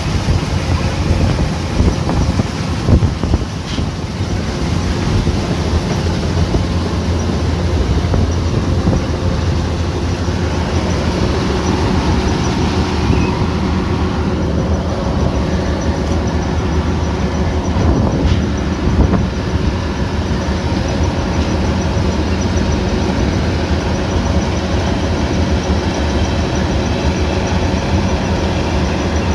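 Kubota combine harvester running steadily, a continuous engine hum with mechanical noise over it.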